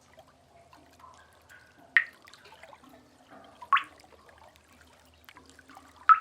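Water drops falling into pooled water in a cave: three loud drips about two seconds apart, each a quick upward-sliding plink, the last near the end. Under them runs a faint, low wash of trickling water.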